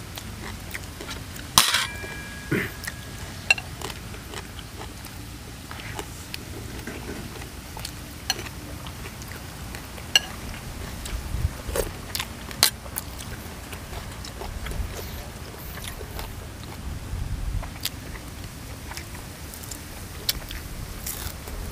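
People chewing sticky rice and raw greens, with scattered short clicks and taps of a metal spoon against a bowl.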